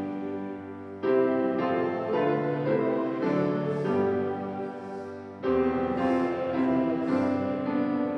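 Piano playing slow, held chords, with new chords struck about a second in and again about five and a half seconds in, each fading away as it is held.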